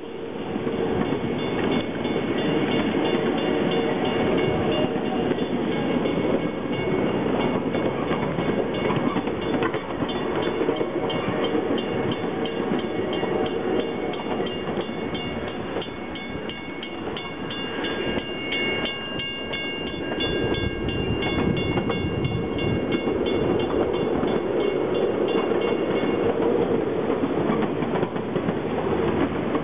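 Train rolling along the track, its wheels clicking rapidly and evenly over the rail joints under a steady rumble. A thin high tone comes and goes through the middle.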